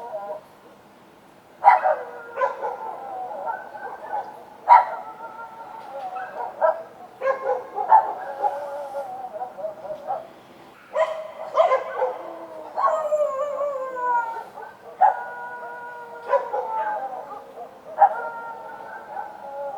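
Street dogs barking repeatedly, the sharp barks running into long, drawn-out howls that slide down in pitch, with several dogs overlapping.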